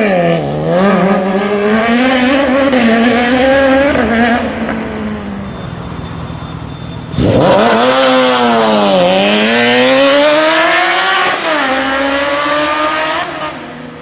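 Sport motorcycle engines accelerating hard. The first fades away over the opening seconds; about seven seconds in, another opens up loudly with rising pitch, its pitch dropping back at gear changes about two and four seconds later before it fades near the end.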